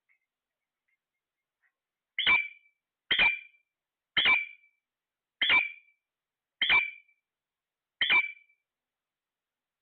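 A parrot giving six short, loud squawks in a row, about one a second, with near silence between them.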